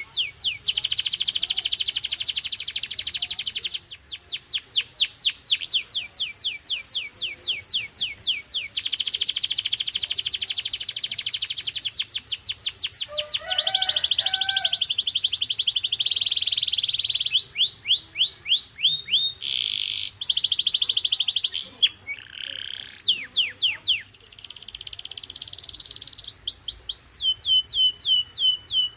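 Canary singing a continuous training song of rolls. Runs of quick repeated notes that fall in pitch alternate with dense, rapid trills, and the pattern changes every couple of seconds.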